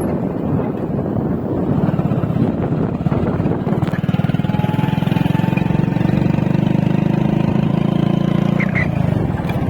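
Motorcycle engine running at a steady pace while riding, with road and traffic noise. The engine note settles into a steady hum about two seconds in and dips briefly near the end.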